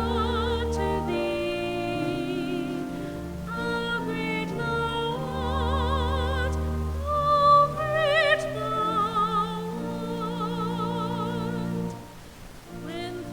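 A solo voice singing long, held notes with wide vibrato over sustained instrumental accompaniment, a classical-style sacred song; the music thins out briefly near the end before the next phrase begins.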